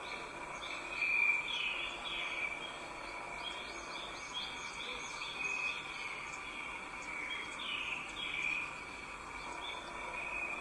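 Small birds chirping in many short, quick calls, loudest about a second in, over a steady high hum.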